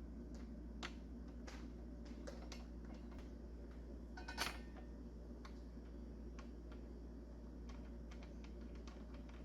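Quiet room tone with a steady low hum and a few faint, irregular small clicks, the loudest a brief clatter about four and a half seconds in.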